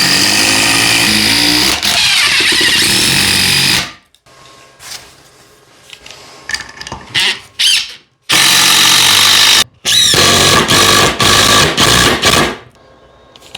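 DeWalt DCF870 hydraulic impact driver driving large screws into LSL lumber. A loud run of about four seconds, then a gap with a few short bursts, then more loud runs in stretches in the second half.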